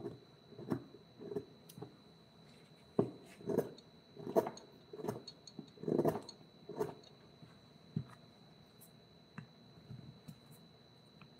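A series of irregular short scrapes and knocks, densest in the middle and thinning out after about eight seconds, over a faint steady high whine.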